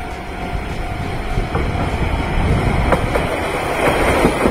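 A Sangi Railway Hokusei Line narrow-gauge electric train comes up and runs close past, its rumble growing louder, with a few clicks of the wheels over rail joints.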